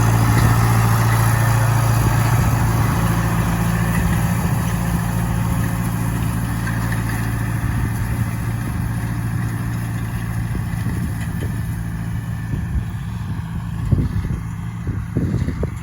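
Farm tractor engine running steadily with a low drone that slowly fades as it works the hayfield. A few low knocks come near the end.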